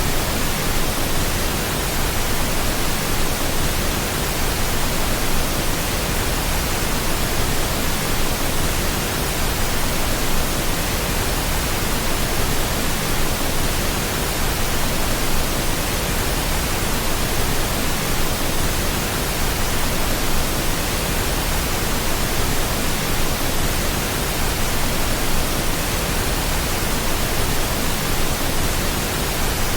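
Steady pink noise: an even, unchanging hiss spread across the whole range, with no breaks.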